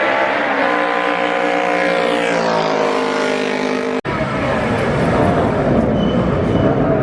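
Racing motorcycle engine running at high revs, its pitch falling as it passes by and slows. A sudden cut about four seconds in gives way to a rougher, noisier engine sound.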